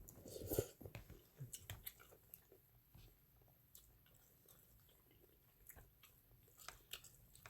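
Faint chewing of ramen noodles, with scattered small wet mouth clicks and a louder bite about half a second in.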